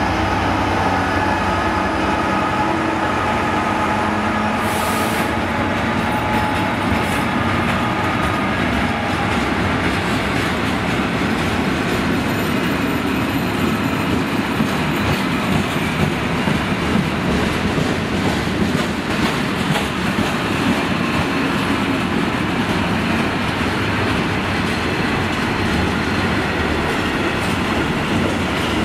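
A diesel freight train passing close by: the DB Cargo Class 66 locomotive's engine hum fades in the first few seconds as it draws away. A long rake of covered steel-coil wagons then rolls past, with steady wheel rumble and clatter over the rail joints.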